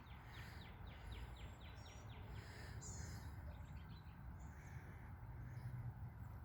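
Faint birdsong: a quick run of short, downward-sliding chirps, about five a second, for the first two and a half seconds, then a few scattered higher calls, over a steady low background rumble.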